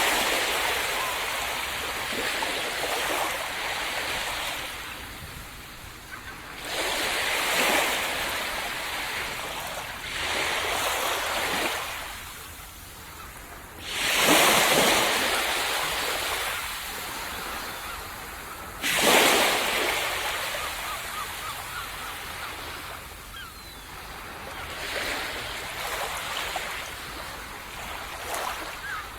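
Waves breaking on a sandy tropical beach, six in turn, each a rush of surf that fades into a hiss as the water washes back up the sand.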